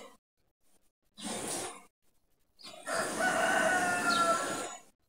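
A rooster crowing: one long crow of about two seconds, after a briefer sound about a second in.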